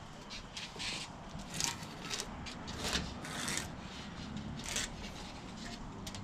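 Rubber screen spline being pulled out of a door screen frame's channel: a series of short, irregular scraping rubs.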